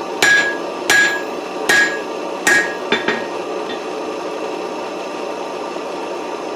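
Hand hammer striking hot 4140 tool steel on an anvil, forging the punch's hammer end into a reduced octagonal taper. Five ringing blows come in about three seconds, the last one lighter, then the hammering stops and a steady rush carries on.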